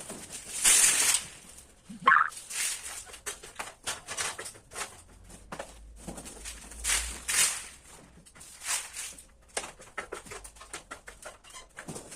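Hand sanding of dried wall putty with a sanding block or mesh: repeated scraping strokes, about one or two a second, with uneven spacing.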